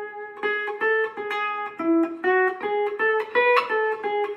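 Lap steel guitar in open G tuning (G B D G B D) played with a bar, picking a run of about a dozen single notes and pairs of notes, some ringing on under the next. The melody moves back and forth between the 3rd and 4th scale tones in the key of E.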